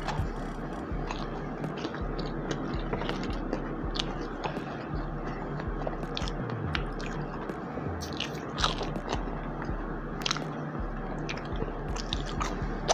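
Close-up chewing and biting of crunchy, dry fried food, with irregular sharp crunches scattered throughout.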